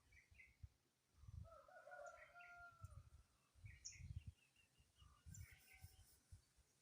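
A faint rooster crow, one call of nearly two seconds starting about a second in. A small bird's short high chirps repeat every second or two.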